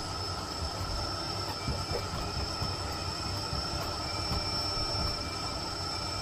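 Miele Blizzard CX1 cylinder vacuum cleaner running steadily: a constant high motor whine over the rush of air, with a few soft low thuds.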